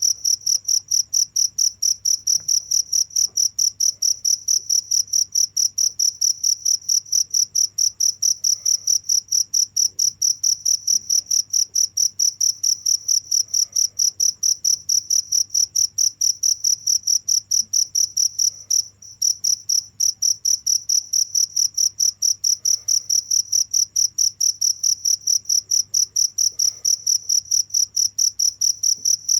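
A cricket chirping close by: a single loud, high-pitched tone pulsed in fast, even chirps, with a brief break about two-thirds of the way through.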